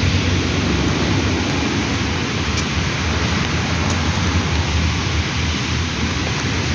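Steady heavy monsoon rain as a dense, even hiss, with a strong low rumble underneath.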